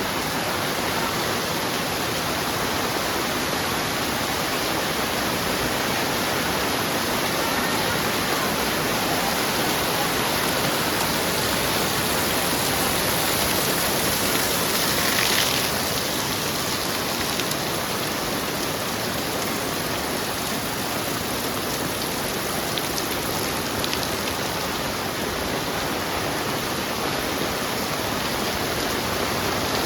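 Heavy rain falling steadily, a dense even hiss of drops on surfaces, briefly louder about halfway through.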